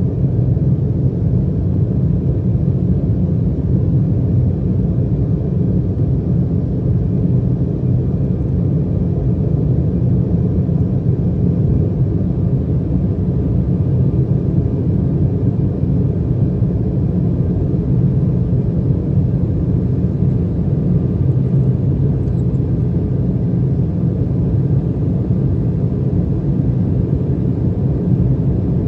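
Steady cabin noise inside an Embraer 175 jet under power: a low rumble of its twin GE CF34 turbofans and the airflow, with a faint steady whine above it.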